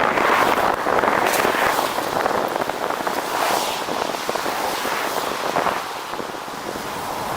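Wind rushing over the microphone with crackly road noise from a moving vehicle.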